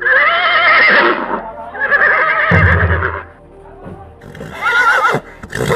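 Horse whinnying: three loud calls with a quavering pitch, followed by a short noisy burst near the end.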